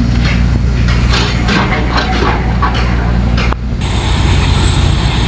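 Heavy diesel machinery engine running steadily, with repeated metallic clanks and knocks over it. About two-thirds of the way through, the sound changes suddenly to a steadier engine run with a thin high whine.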